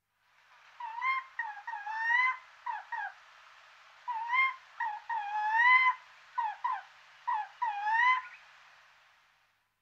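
A bird calling in three bouts of whistled notes that glide up and down.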